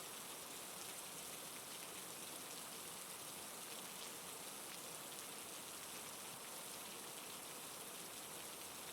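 Steady rain falling on a surface, with scattered individual drops ticking through it.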